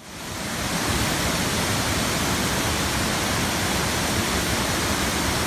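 Waterfall: a steady, loud rush of falling water that fades in over about the first second.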